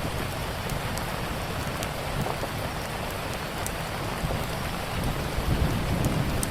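Steady rain with a low rumble underneath, and a wood fire's sharp little crackles scattered through it.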